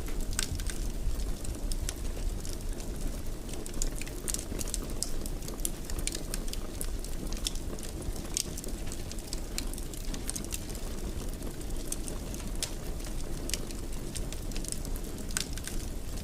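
Fireplace fire burning, a steady low rumble with irregular sharp crackles and pops from the burning wood.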